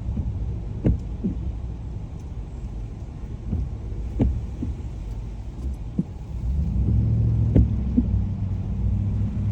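Car interior road noise: engine and tyre rumble on a wet road, heard from inside the cabin, growing louder about six and a half seconds in as the car speeds up. A few light knocks come through, about three and a half seconds apart.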